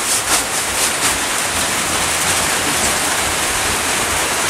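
Steady rain that has just started falling, making an even hiss. A few short scrapes or rustles come in the first second.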